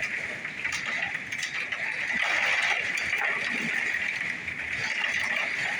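Heavy hail pelting parked cars: a continuous dense clatter of hailstones striking metal and glass, with many individual sharp hits standing out.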